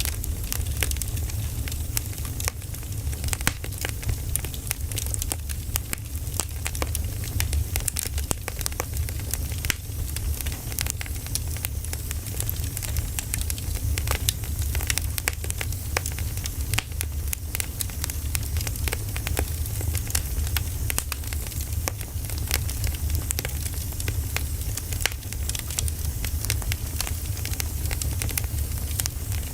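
Burning firewood crackling, with frequent sharp pops over a steady low rumble of the fire.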